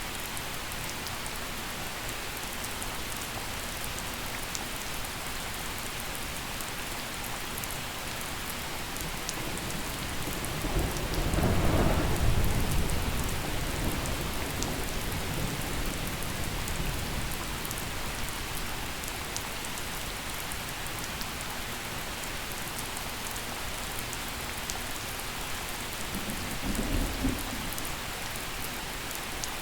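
Steady gentle rain falling, with a roll of thunder that swells about a third of the way through and slowly fades, and a shorter, fainter rumble near the end.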